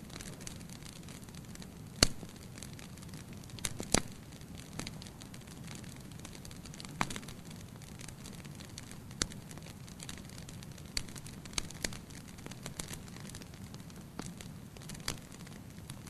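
Wood fire burning in a fireplace: a steady low rush of flames with scattered sharp crackles and pops, the loudest about two and four seconds in.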